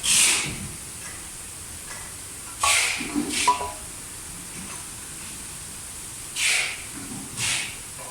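Short hissing bursts, five in all: one at the start, a close pair near three seconds in, and another pair near the end.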